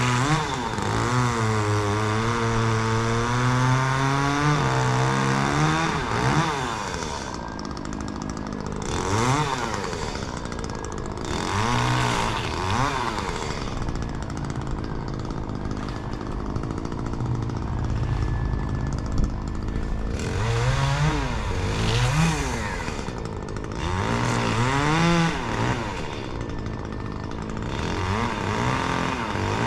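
Chainsaw running at high revs, its engine pitch sagging and wavering for the first few seconds and then rising and falling over and over, as a saw does when it bogs down in wood and revs up again.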